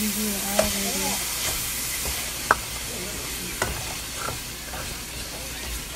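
A butter sauce with onions, peppers and garlic sizzling in a pot as it is stirred. The stirring utensil clicks sharply against the pot a few times, loudest about two and a half seconds in.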